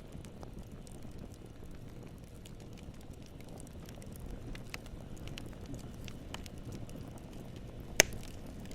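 Campfire crackling: a steady low rush of burning wood with scattered small crackles and one sharp, much louder pop about eight seconds in.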